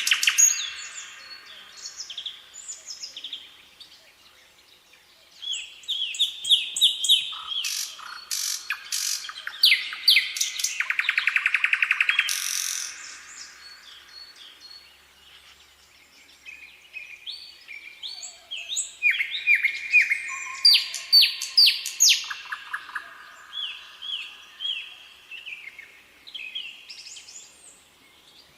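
Songbird singing: two long, varied bouts of rapid trills, chirps and down-slurred whistled notes, separated by a few seconds of scattered quieter calls.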